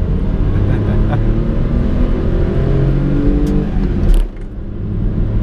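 Honda Today Pochette's 660cc three-cylinder engine heard from inside the cabin, revs climbing steadily under acceleration. About four seconds in there is a short thump and the engine sound drops away as the car changes up a gear, then it builds again.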